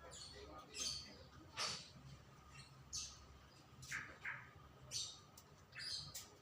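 Songbirds chirping: short, high chirps about once a second, some in quick pairs.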